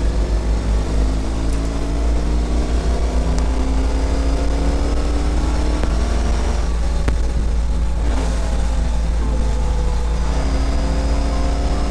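Ural sidecar motorcycle's boxer-twin engine accelerating through the gears. Its pitch climbs and then falls back at each shift, about three and seven seconds in. A steady low wind rumble runs underneath.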